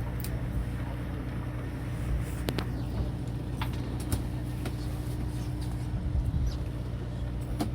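Fishing boat's engine running with a steady low hum, with a few sharp clicks scattered through it.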